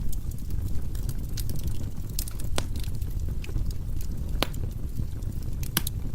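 Firewood burning in a fireplace: a steady low rumble of the fire with scattered crackles and pops from the logs, a few sharper snaps standing out, the last near the end.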